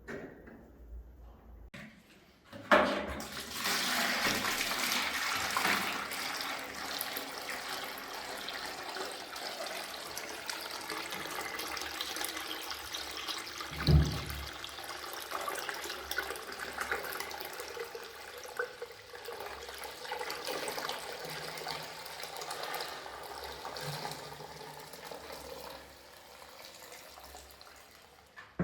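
Wet carpet-cleaning machine running, a steady rushing of water and suction over the carpet. It starts with a knock and fades near the end, with one heavy thump midway.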